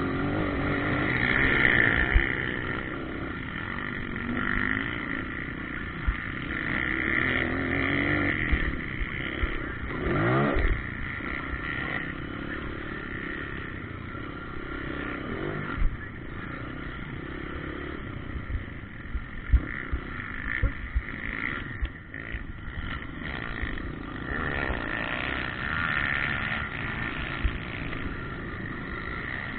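Motocross bikes running on a dirt track, their engines revving and fading as they ride around, with one bike accelerating past with a rising whine about ten seconds in. Several short sharp knocks are heard through it.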